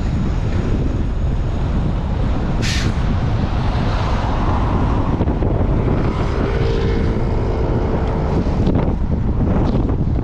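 Strong wind buffeting the microphone of a chest-mounted camera on a moving bicycle: a loud, steady rumble with road traffic under it. A short sharp hiss comes about three seconds in, and a steady droning tone lasts about two seconds past the middle.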